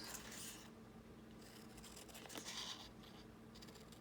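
Scissors cutting cardstock: faint scratchy snips and paper scraping in a few short patches, one at the start and one about two and a half seconds in.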